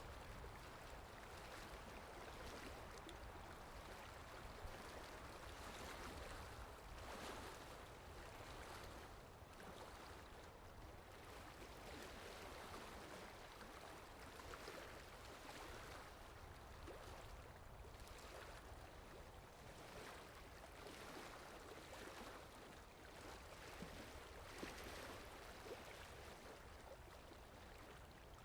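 Water sound effect: faint, continuous running water that swells and eases every few seconds.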